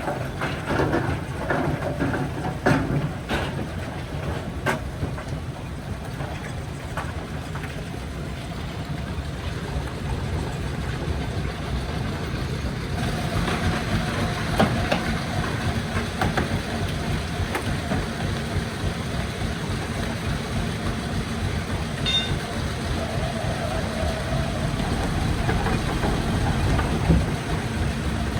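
Heavy rock-crushing machinery running steadily with a low engine rumble, with sharp knocks of rock on steel in the first few seconds.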